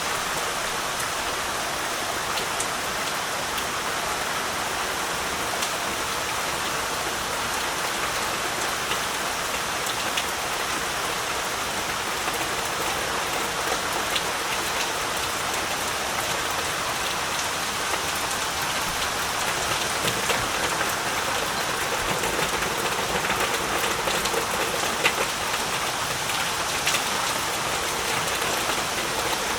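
Heavy rain falling steadily, a dense hiss dotted with individual drops striking surfaces, a few louder drips standing out near the end.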